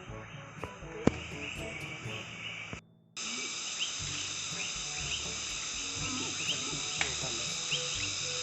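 Forest insects, crickets or cicadas, keeping up a steady high-pitched buzzing chorus, with short rising chirps repeating about once a second. There is a sharp click about a second in and a brief drop-out just before 3 seconds.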